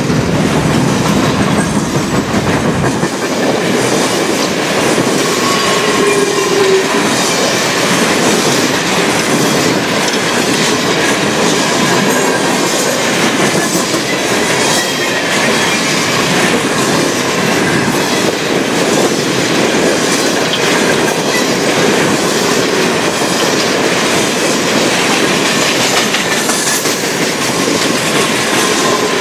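Freight train of covered hopper cars rolling past close by: a steady loud clatter and rumble of steel wheels on the rail, with a few brief thin wheel squeals.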